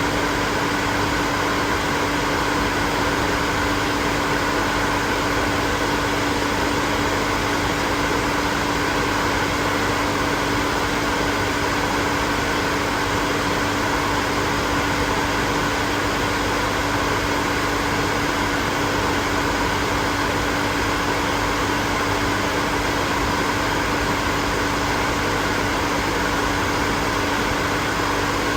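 Hair dryer running steadily: a continuous rush of blown air with a steady motor hum.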